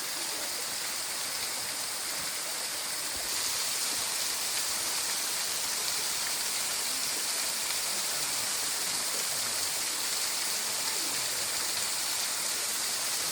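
Waterfall: a steady rush of falling water that gets a little louder and brighter about three seconds in.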